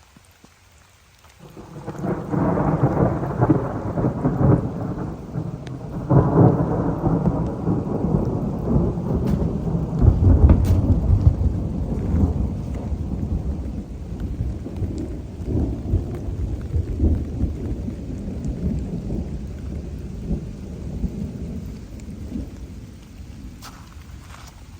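A long roll of thunder: a low rumble that starts about a second and a half in, swells several times and slowly dies away near the end, over falling rain.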